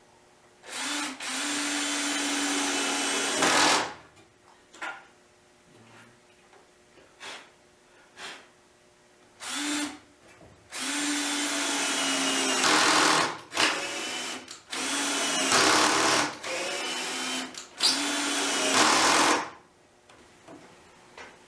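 Electric drill running in about six runs of one to three seconds each, with small knocks between them, while a side board of a wooden beehive box is fastened.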